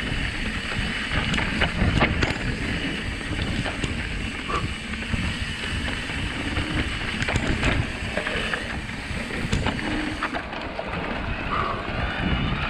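Wind rushing over the camera microphone as an electric mountain bike rides a forest trail, with tyre noise and frequent small clicks and rattles from the bike.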